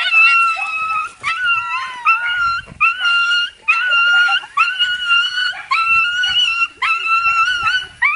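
A dog crying in a run of long, high-pitched whines, about one a second, each held steady and then breaking off. This is the excited whining of a dog greeting its returning owner.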